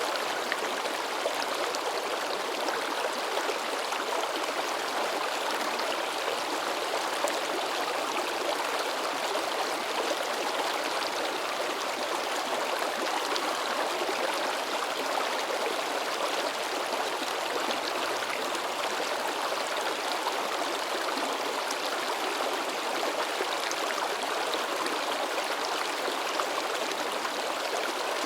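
A babbling mountain stream: water rushing and splashing over rocks in a steady, even wash of sound.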